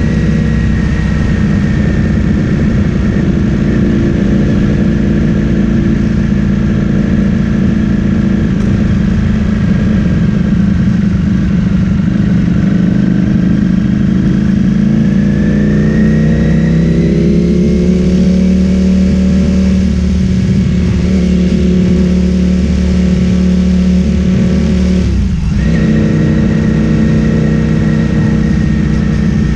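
Ducati Streetfighter V4S's 1103 cc V4 engine through an Akrapovic full-system exhaust, running under way. Its note climbs gradually about halfway through and then holds steady, with a brief sudden dip and recovery about three-quarters of the way in.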